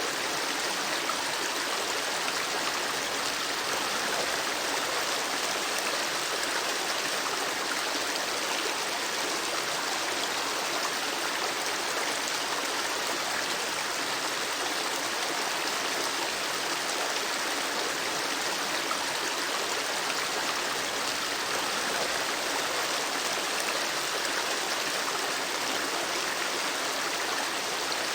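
River water flowing: a steady rushing and babbling of moving water, even in level throughout.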